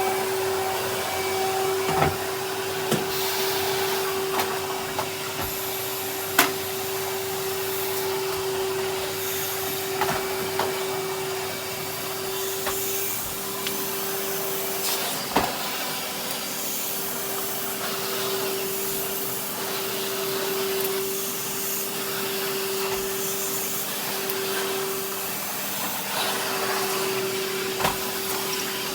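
Henry cylinder vacuum cleaner running steadily while vacuuming, a constant motor hum and suction hiss. A few sharp knocks cut through it, the loudest about six seconds in.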